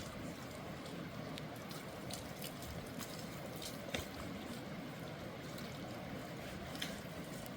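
Steady sound of running, trickling water with a few sharp drip-like ticks scattered through it.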